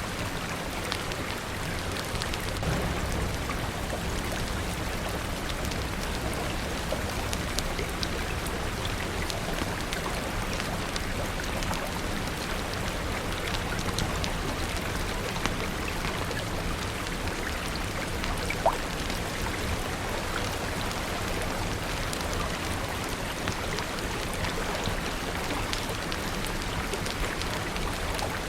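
Steady rain falling on a surface, mixed with scattered sharp pops and clicks of a crackling fire. A soft low rumble sits under the first several seconds.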